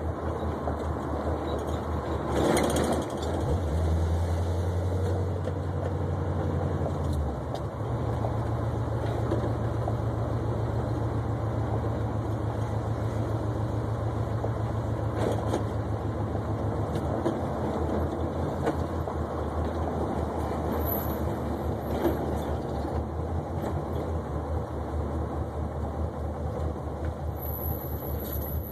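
Oldsmobile 442's V8 engine driving the car along. Its low note steps up about four and eight seconds in as it pulls, then drops back to a lower steady drone about seventeen seconds in as the car slows. A single knock comes about two and a half seconds in.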